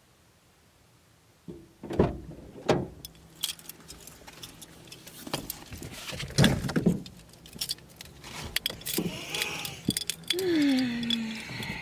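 Keys jangling among a series of sharp thumps and clicks, with a short falling squeak near the end.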